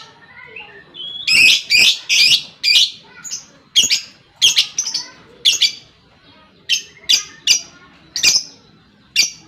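Lovebird giving a string of short, shrill calls, about fifteen in quick runs with a brief pause midway.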